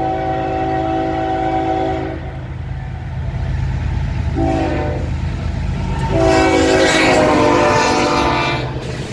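Diesel locomotive's multi-chime air horn blowing a long blast, a short one, then a final long blast that drops in pitch as the train passes, over the steady rumble of the train. This is the closing short-long part of the standard grade-crossing horn signal.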